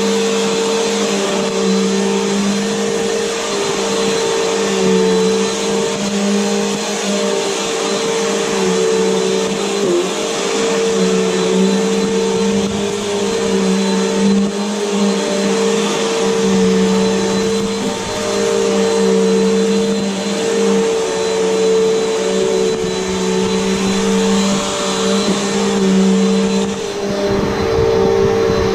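Upright vacuum cleaner running steadily, a motor whine with a steady hum and rushing air, rising and falling slightly as it is pushed back and forth.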